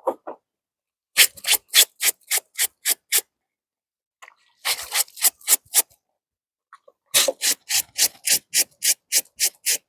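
A scrubbing brush worked back and forth over soapy wet clothes, about four strokes a second in three runs with short pauses between, scrubbing mildew stains out of a white blouse.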